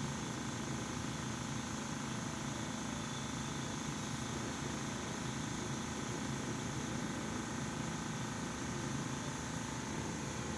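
A steady background hum with an even hiss, unchanging throughout.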